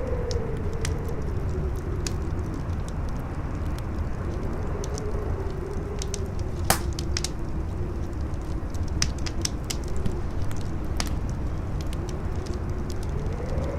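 Howling wind whistling in a slow rising-and-falling tone over a low rumble, with a wood fire crackling throughout and one sharper, louder pop about seven seconds in.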